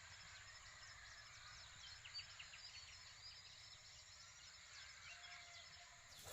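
Faint outdoor farm ambience: many small birds chirping and twittering in short quick notes over a low steady background rumble.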